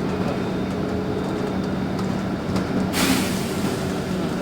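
Steady drone of a LiAZ 5292 city bus heard from inside the cabin, with a sudden hiss of released compressed air from the bus's pneumatics about three seconds in that fades over about a second.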